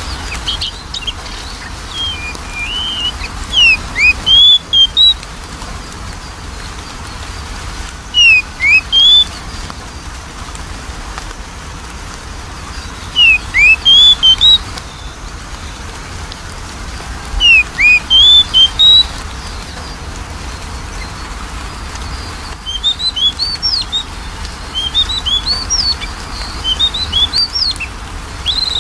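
Oriental magpie-robin (kacer) song played as a lure: loud whistled phrases of quick rising and falling notes, repeated every four or five seconds, turning to faster, busier chirping near the end, over a steady low hum.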